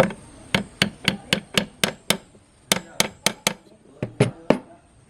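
Repeated sharp hammer taps, about four blows a second in short runs with brief pauses, during work on an antique sewing machine's parts.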